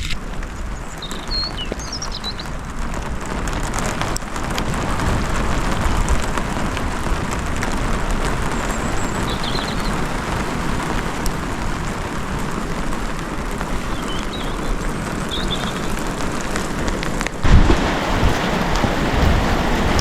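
Steady rain pattering on the greenhouse roof, with a few faint high chirps now and then. A sudden knock near the end, after which the rain sound changes.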